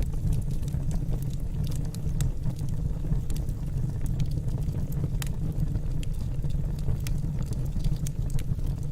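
Wood fire burning in a fireplace: a steady low rumble of the flames with frequent sharp crackles and pops of the burning logs.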